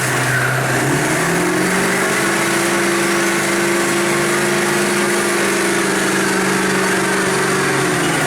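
Big truck engine revving up about a second in, held steady at high revs, then dropping back near the end.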